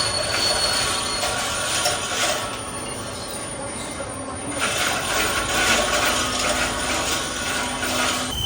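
Heavy boring machine cutting a steel pipe: continuous metal-cutting noise that eases off for about two seconds in the middle, then picks up again.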